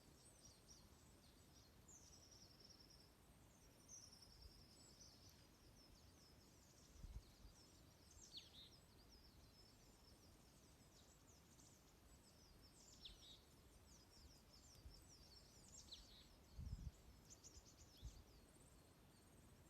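Small songbirds calling: many short high chirps, a couple of trills and several downward-sweeping notes, faint over a quiet background. A few low thumps are heard around the middle and near the end.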